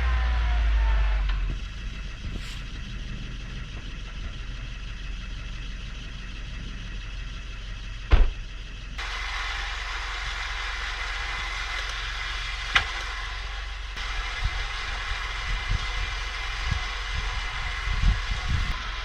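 A motor vehicle's engine running with a steady low drone, louder and falling in pitch at first. The sound changes abruptly twice, and a few sharp knocks cut through it.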